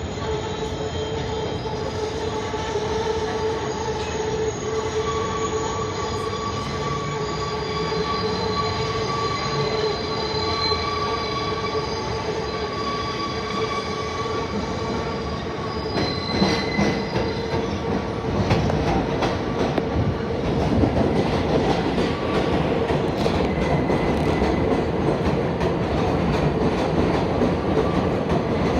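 An R188 subway train on the 7 line pulling into the elevated station: steady rumble with high-pitched wheel squeal through the first half, then louder rumbling and clicking over the rail joints from about halfway through.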